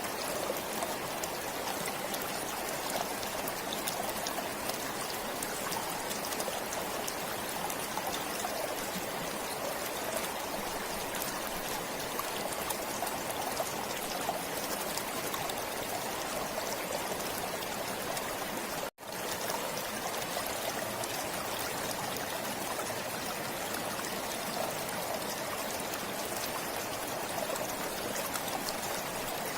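Forest stream flowing steadily, with a momentary cut to silence about two-thirds of the way through.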